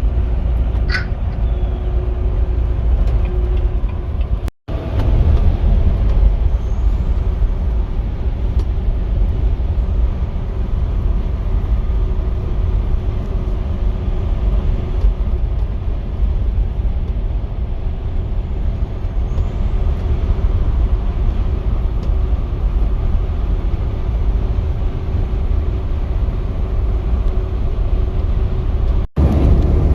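Semi-truck on the move: a steady low engine and road rumble with a faint hum over it, cut by two sudden brief dropouts, about four and a half seconds in and near the end.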